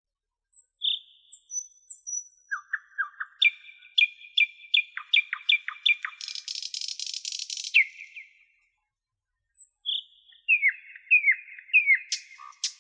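A songbird singing in phrases: high chirps, quick runs of repeated notes and a buzzy stretch, with a pause of about a second two-thirds of the way through.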